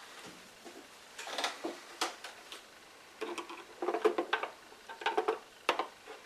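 Irregular light clicks and clatters as a container of paint stripper is opened and the diecast metal toy car bodies inside it are handled, busiest in the second half.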